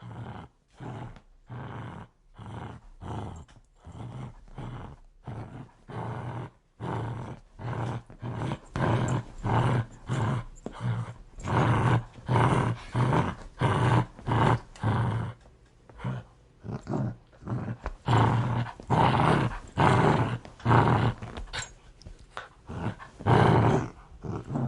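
A dog growling aggressively in a long run of short rasping pulses, about two a second, getting louder about eight seconds in.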